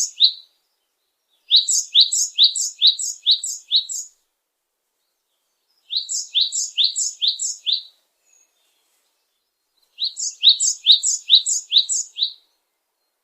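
A songbird singing a phrase of about six quick, high, repeated two-part notes, each phrase lasting about two seconds; it sings again after a few seconds' pause, with the phrase starting roughly four times in the stretch.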